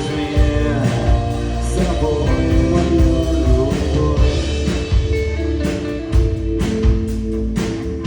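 Live rock music: band with electric guitar and drums, with some singing.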